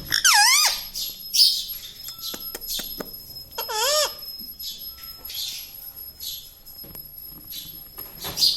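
Indian ringneck parrot calling: two short squawks that swoop down and up in pitch, one right at the start and one about four seconds in, with soft raspy chatter between them.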